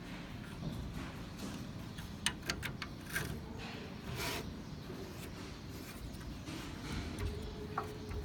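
Light handling noises from small hardware being worked on: a quick run of sharp clicks a little over two seconds in, a few soft rubbing swishes, and one more click near the end, over a steady low hum.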